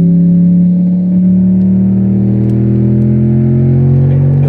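Cadillac STS-V's supercharged V8 pulling under acceleration, its pitch climbing slowly and steadily, with a brief dip in level about a second in.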